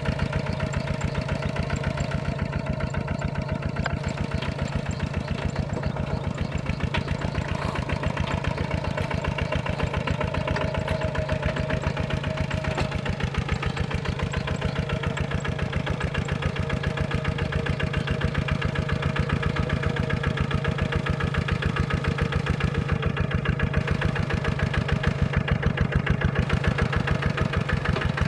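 Small tractor's diesel engine running steadily, with rapid, even firing beats and a constant hum.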